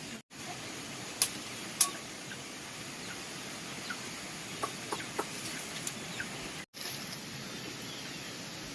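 Poultry calling faintly in short clucks over a steady hiss. Two sharp knocks come a little after a second in.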